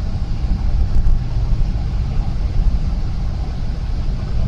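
Steady low rumble of a moving car heard from inside the cabin: engine and tyre noise while driving.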